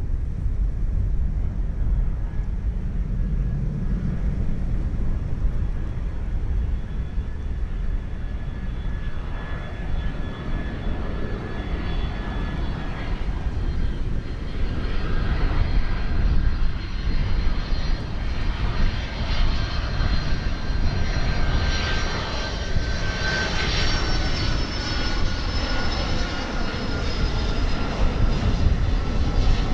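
Jet airliner passing low overhead: a steady engine rumble with a high engine whine that builds up and drops slightly in pitch about three-quarters of the way through as it goes by.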